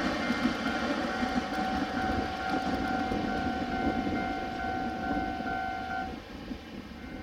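A Taiwan Railway train passing over a level crossing, a dense steady rumble of wheels on track. A steady high ringing tone sits over the rumble and cuts off about six seconds in, where the rumble also eases.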